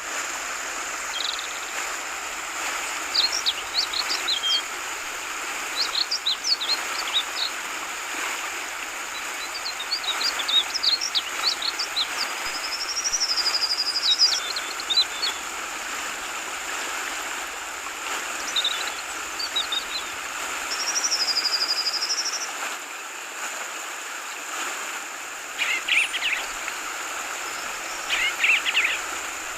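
Yellow-vented bulbul (trucukan) calling in short chattering bursts every few seconds, with two longer warbled phrases, over the steady babble of flowing water.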